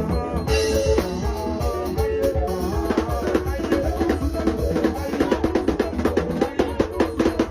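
Music with a drum kit: held pitched notes over a beat, the drum strikes growing quicker and denser over the second half.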